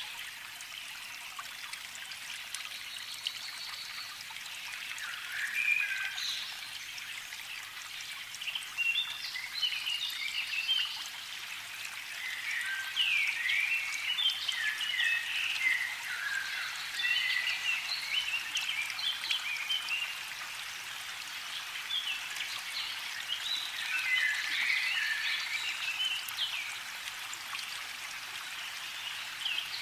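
Birds chirping and singing in scattered bursts of short, quick notes over a steady background hiss.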